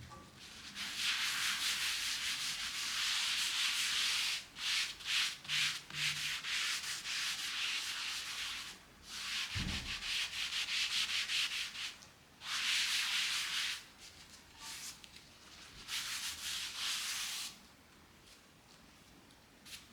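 Scratchy rubbing noise in long stretches broken by short pauses, with a soft low thump about halfway through.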